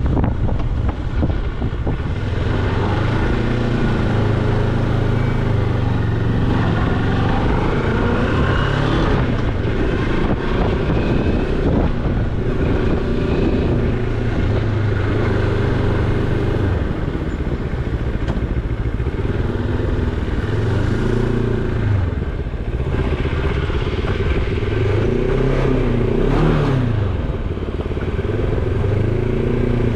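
Moto Morini X-Cape's 649 cc parallel-twin engine running, with the revs rising and falling several times in the second half, over a steady rush of noise.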